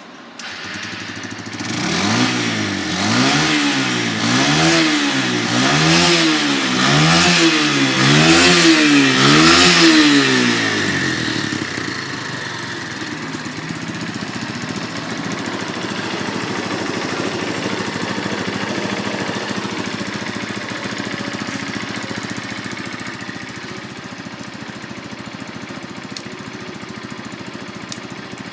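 A 1998 Kawasaki Eliminator 125 single-cylinder four-stroke engine starts and is revved about six times in quick blips, each rising and falling in pitch. It then settles into a steady idle.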